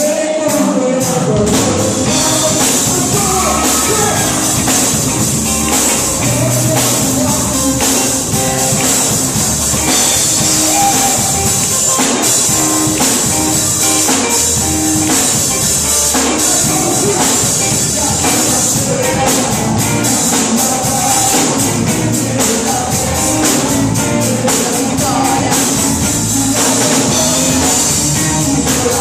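Live worship band playing a song, with singing voices over a steady drum beat and tambourine.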